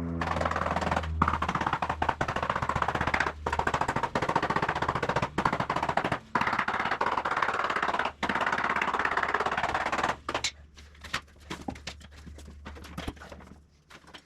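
Power tool rattling rapidly in bursts of a second or two with brief pauses, over a steady low hum, then lighter scattered clicks and knocks for the last few seconds.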